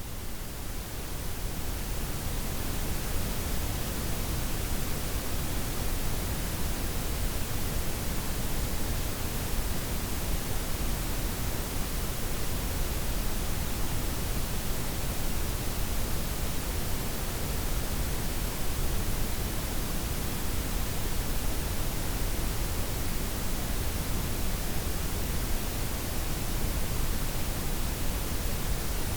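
Synthetic layered noise, white, pink and brown noise blended with the highs softened: a steady, even hiss over a heavier low rumble. It swells in over the first couple of seconds, then holds steady.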